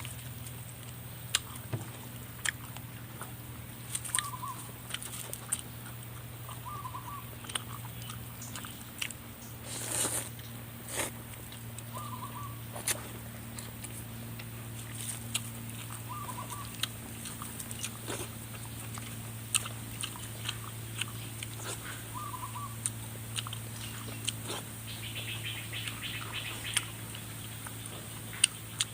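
Mouth sounds of eating spicy chicken feet: many short, sharp crunching and chewing clicks at irregular intervals. A bird gives a short call about every few seconds, over a steady low hum.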